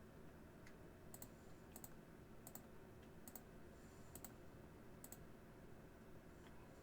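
Faint, sharp clicks at a fairly even pace, about one every three-quarters of a second, over near silence.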